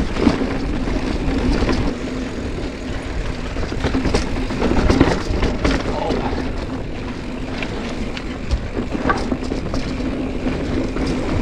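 Mountain bike riding on a dirt trail: a steady rumble with scattered clicks and knocks.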